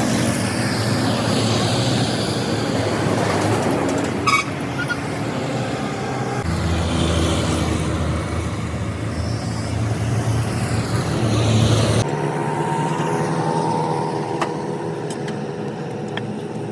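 Motor vehicle engines running, with road traffic, the sound changing abruptly twice. There is a single sharp knock about four seconds in.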